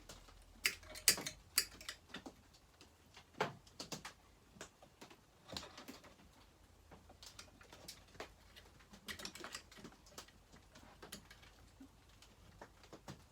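Irregular light clicks and taps of small metal chainsaw parts and a hand tool being handled and fitted during reassembly of a McCulloch 850 chainsaw, the loudest about a second in.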